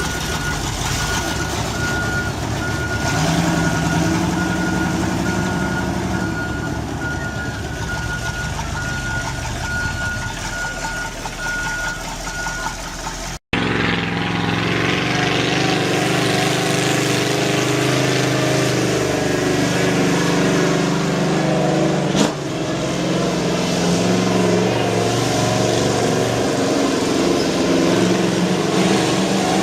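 A large truck engine running, with a reversing beeper sounding a steady series of evenly spaced beeps. About halfway through, the beeping has stopped and a heavier engine sound takes over, running steadily, with one sharp click.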